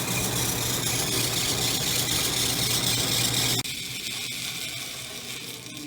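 Modine BA130SBM furnace's belt-driven blower running steadily, then switching off about three and a half seconds in and winding down with a faint squeaking as it slows. The squeak seems to come from the drive belt on the motor pulley, which needed adjusting.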